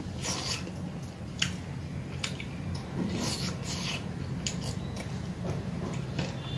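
Eating sounds: chewing and lip smacks on mouthfuls of rice and curry eaten by hand, a string of short wet clicks over a steady low hum.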